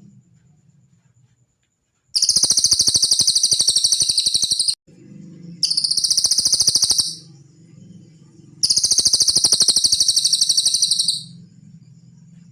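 Cililin bird singing three high, rapid pulsed trills, each lasting about one and a half to two and a half seconds, with short pauses between them.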